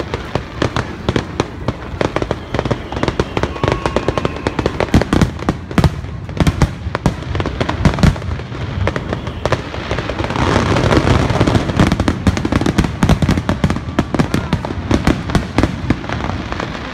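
Aerial fireworks shells bursting in quick succession, several sharp bangs a second. About ten seconds in the bursts crowd together into a denser, louder barrage.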